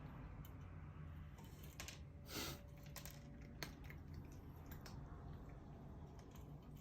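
Cats eating, the faint scattered clicks and crunches of food being picked up and chewed, with one louder brief scrape about two and a half seconds in over a low steady hum.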